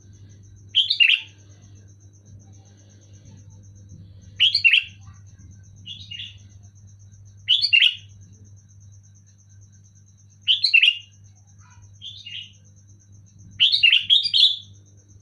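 Sooty-headed bulbul (kutilang) giving short whistled call phrases, about seven of them spaced a second or more apart, the last one longer and more run-together.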